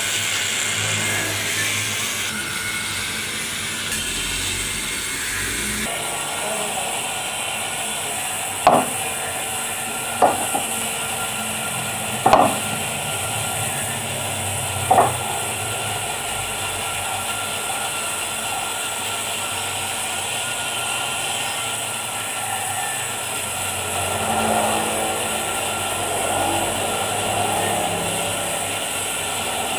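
Steady workshop machine hum with four sharp metal-on-metal knocks, each ringing briefly, about two seconds apart, from work on a manual lathe.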